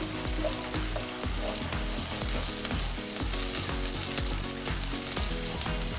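Ketchup and white vinegar sizzling steadily in hot oil with sautéed crushed garlic in a pan, as a sauce is being cooked.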